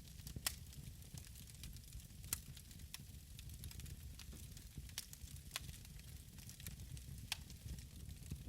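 Wood fire in a fireplace crackling, with sharp irregular pops over a low steady rumble.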